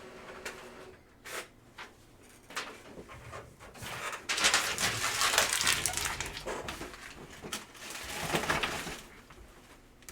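Trading-card packaging being handled and opened: a few light clicks and taps, then a loud crinkling tear about four seconds in lasting a couple of seconds, and a shorter crinkle near the end.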